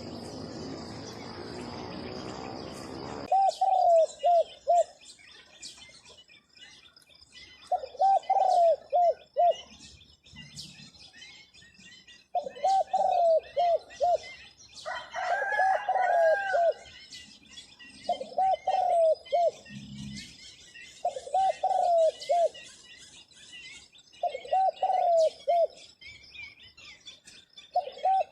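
Zebra dove cooing: a short rolling phrase of four or five quick coos, repeated about every three seconds, eight times. Insects trill faintly and steadily underneath, and a hiss in the first three seconds cuts off suddenly.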